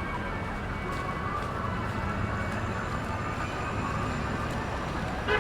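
City street traffic noise: a steady rumble of passing vehicles with faint tones over it, and a brief louder sound near the end.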